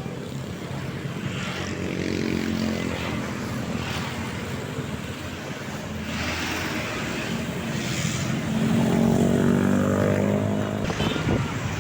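Heavy truck's diesel engine pulling hard, its drone swelling twice and loudest about three quarters of the way in.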